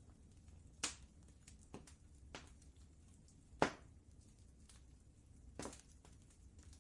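Wood fire crackling in a fireplace: a few sharp pops, the loudest about halfway through, with fainter ticks between them over a low steady rumble.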